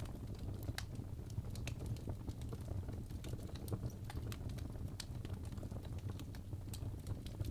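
Fireplace crackling: irregular sharp pops and snaps over a low, steady rumble of burning wood.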